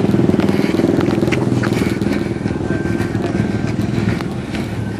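Car engine running nearby with a rapid, pulsing exhaust rumble that slowly fades.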